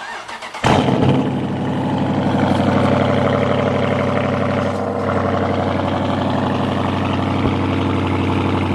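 Dodge Challenger cold start: the starter cranks for under a second, then the engine fires with a loud burst and settles into a steady fast idle.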